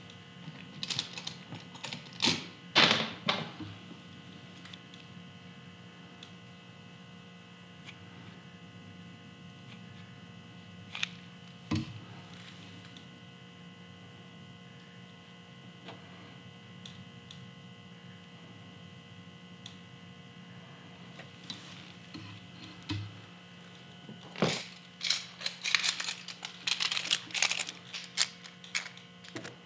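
Steady electrical hum with scattered sharp clicks and knocks from handling paintless-dent-repair tools and glue tabs, with a run of quick clicking near the end.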